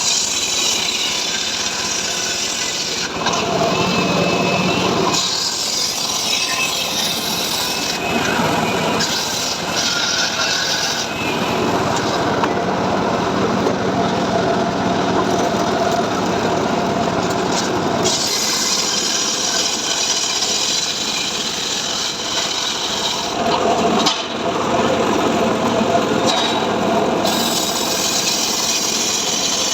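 Engine-driven saw cutting dry mahogany wood. The engine runs continuously and the sound of the cut shifts every few seconds as the blade works through the wood.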